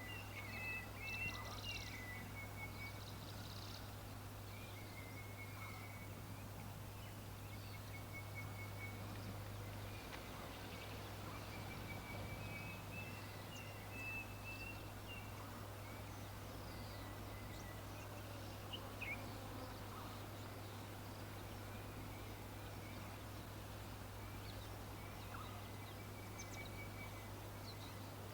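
Birds calling: short chattering trills repeated on and off, over a steady low hum.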